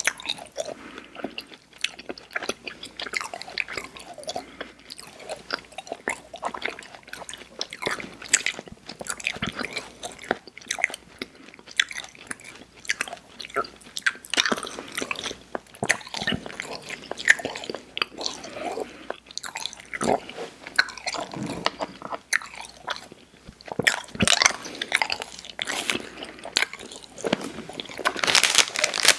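Close-miked mouth sounds of chewing soft, chewy Airheads Xtremes sour candy: wet, sticky smacks and clicks in an irregular, continuous run.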